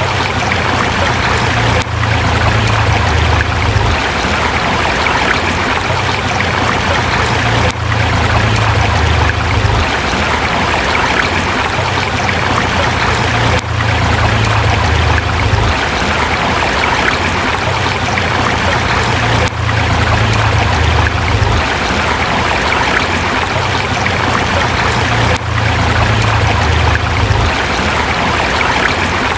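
Forest river flowing over rocks in a steady rush of water. A low rumble comes and goes about every six seconds.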